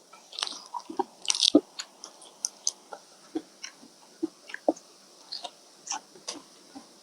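Close-miked mukbang eating: a person chewing and biting a mouthful of rice noodles and fish balls, with irregular wet mouth clicks and smacks, the loudest cluster just after a second in.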